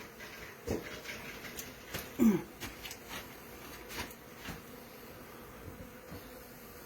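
Honeybees buzzing around a colony opened up inside a wall, a faint steady hum. A few light knocks and clicks, and a brief louder sound that drops in pitch a little past two seconds in.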